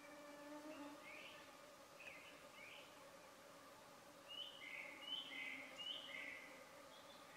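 Quiet waterside ambience with a bird calling in short falling notes, three paired calls in quick succession in the second half. A faint steady hum fades out about a second in.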